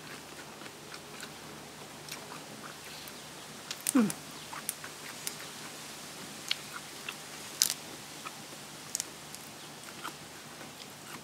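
A person chewing and biting food close to the microphone: scattered wet mouth clicks and small crunches, with a short falling hum about four seconds in.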